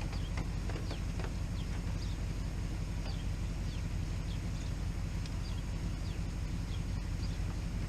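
A steady low engine hum, like a vehicle idling, with birds chirping over it in many short falling notes.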